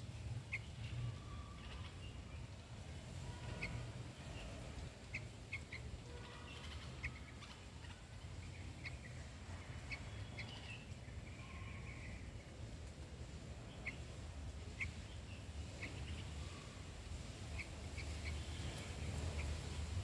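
Short, high bird chirps, scattered singly and in small clusters every second or so, over a steady low rumble.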